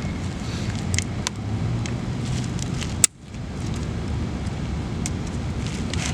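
Steady low vehicle rumble with a few light clicks of parts being handled, and one sharp click about three seconds in.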